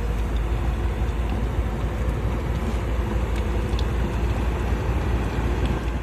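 Kobelco SK200 hydraulic excavator's diesel engine running steadily with a deep rumble, with a few faint ticks around the middle.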